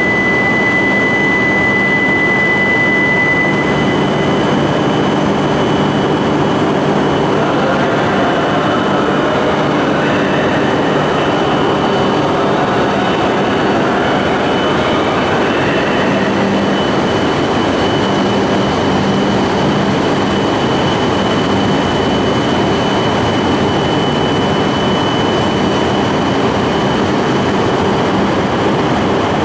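Shinkansen train running at a station platform: a steady, loud rumble of wheels and running gear with a high steady whine. A second, lower whine stops about four seconds in.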